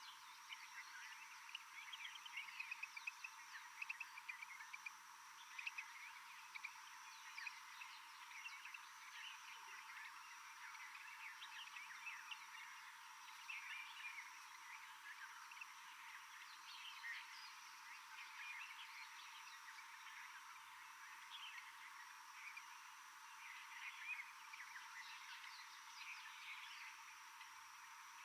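Faint rainforest ambience: a dense chorus of short, high chirps and trills from small forest animals, over a steady thin high-pitched tone.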